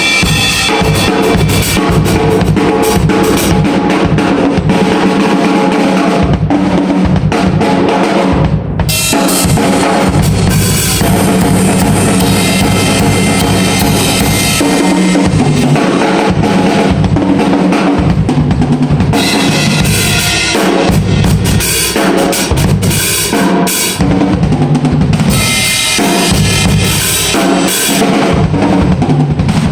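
Drum kit played continuously, loud, with bass drum, snare and cymbals. The playing breaks off for an instant about nine seconds in, and again briefly near the end.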